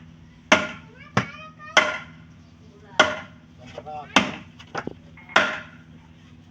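Repeated sharp blows on wood, six or seven at uneven intervals of about a second, each ringing briefly, as in chopping timber for raft building.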